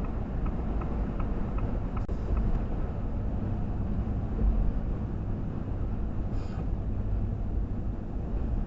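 Steady car road and engine noise heard inside the cabin. For the first two seconds or so a turn signal ticks at an even pace, then stops, as the car moves over a lane.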